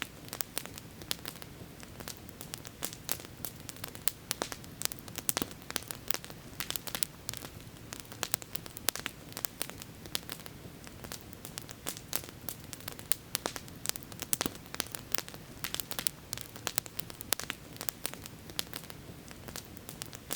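Campfire crackling: many sharp, irregular pops and snaps over a steady low hiss.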